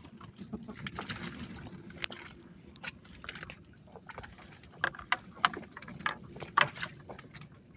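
Irregular sharp knocks and clicks over a low, steady hiss, the loudest bunched in the second half.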